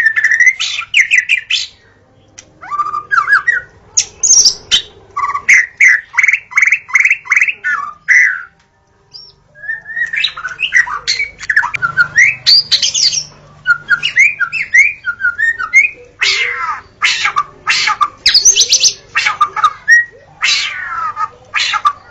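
White-rumped shama (murai batu) singing: loud, varied phrases of whistled glides and rapid series of repeated notes, with short breaks between phrases and a pause of about a second near the middle.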